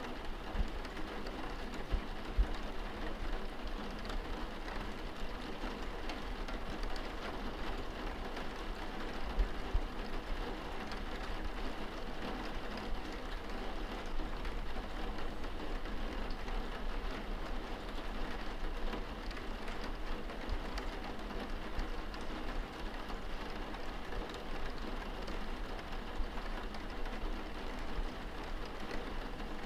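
Steady rain on window glass, heard from inside the room, with a few louder drop hits standing out from the even rush.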